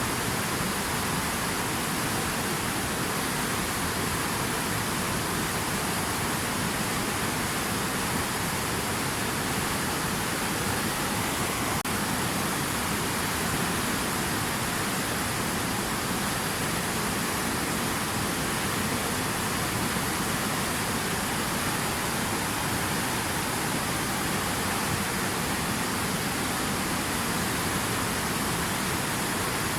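Steady, even rush of water, with no distinct splashes or drops standing out.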